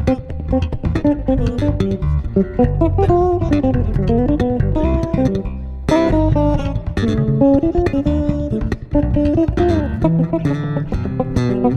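Two electric bass guitars, a six-string and a four-string, playing an instrumental piece together: a plucked melody in the higher register over a low bass line.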